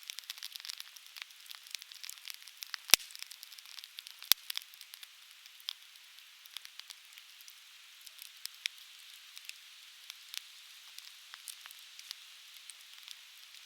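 Softwood (conifer) firewood burning in an open fire, crackling with many small irregular pops over a faint steady hiss. Two much louder snaps stand out about three and four seconds in.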